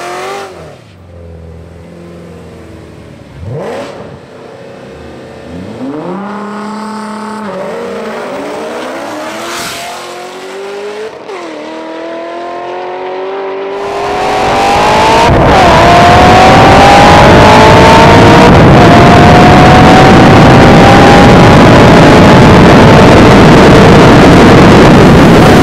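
Ford Shelby GT500 supercharged V8 and Nissan GT-R twin-turbo V6 in a roll race. The engines rev up and down at low speed, then about fourteen seconds in they launch together at full throttle. From there the sound is very loud and steady, with the engine notes held high to the end.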